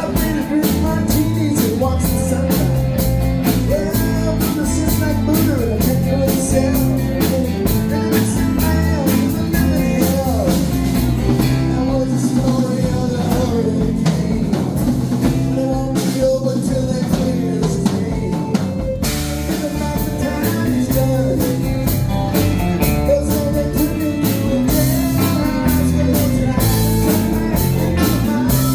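Live band playing a blues-rock song, with electric guitar, bass and drum kit; the level stays loud and steady throughout.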